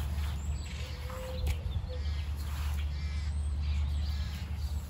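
Outdoor birds chirping and calling in short scattered notes, over a steady low rumble.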